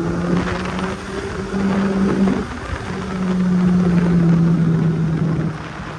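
Kawasaki Z800's inline-four engine running under way over a rush of wind noise, its pitch breaking and changing about two and a half seconds in and dropping again near the end.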